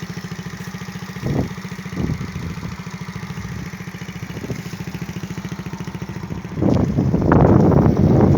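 SkyTeam Monkey mini motorcycle's single-cylinder four-stroke engine idling warm, with a clean, even idle. About six and a half seconds in, a much louder, rough rushing noise takes over.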